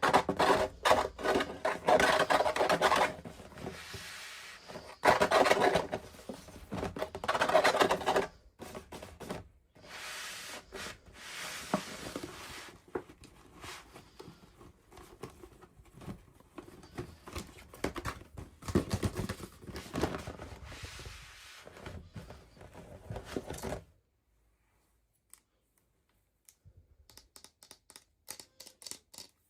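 Plastic toy packaging being handled and opened: crinkling, scraping and clicking in loud spells, stopping about 24 seconds in, followed by a few faint taps near the end.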